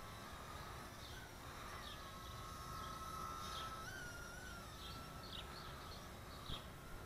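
Faint bird chirps, short falling notes repeating every half second or so, over a thin steady whine that steps up in pitch about four seconds in. A soft knock near the end.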